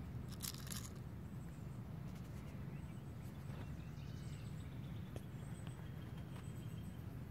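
Outdoor background: a steady low rumble, with faint short high chirps scattered through and a brief rustle about half a second in.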